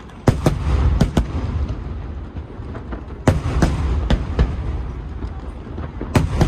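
Aerial fireworks exploding: a string of sharp bangs, several close together and a cluster about three seconds in, over a continuous low rumble of shells bursting.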